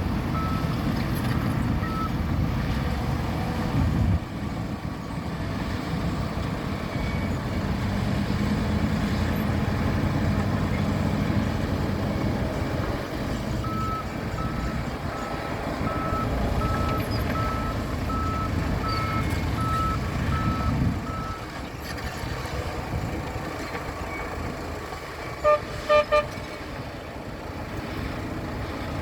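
Diesel engine of a bulldozer running steadily under load. A reversing alarm beeps evenly, a little more than once a second, for several seconds from about halfway. Near the end there are three short horn toots.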